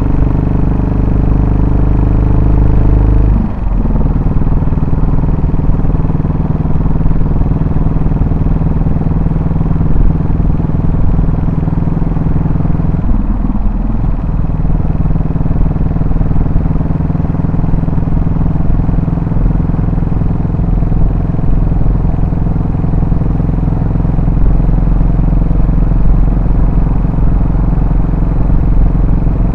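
Yamaha SR400 single-cylinder four-stroke engine and exhaust running steadily while ridden. Its note breaks briefly twice, about three and a half seconds in and again around thirteen seconds.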